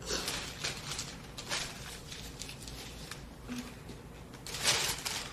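Rustling and handling noises of groceries being taken out of a shopping bag: a run of short crinkles and knocks, with a louder rustle near the end.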